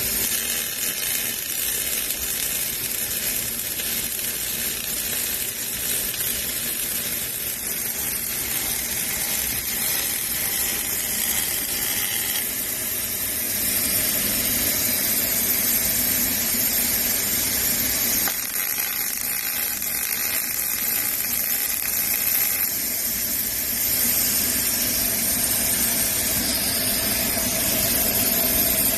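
Robotic arc welding: the welding arc sizzling and crackling steadily, a continuous hiss.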